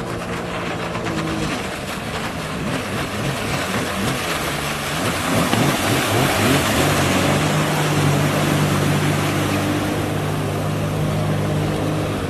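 Motorboat engine running at speed, with water rushing past the hull. The engine note shifts in the first few seconds, then holds steady and a little louder from about halfway.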